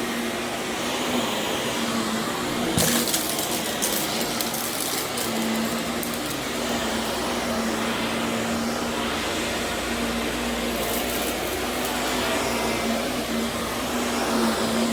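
Vacuum cleaner running steadily over Berber carpet, its motor holding a constant hum under a rushing airflow. Bursts of crunchy crackling come about three seconds in and again around eleven seconds, as grit and debris from the move are sucked up.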